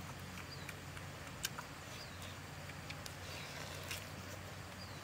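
Eating sounds: a few sharp mouth clicks and smacks from people chewing grilled beef, over a steady low hum.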